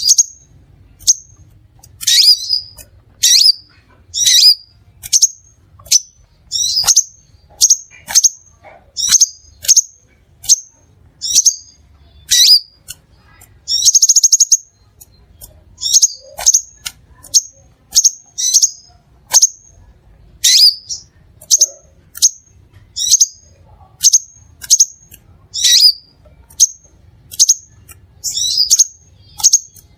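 Crimson sunbird calling: a fast, steady series of short, sharp, high chips about one to two a second, with a brief buzzy trill about halfway through.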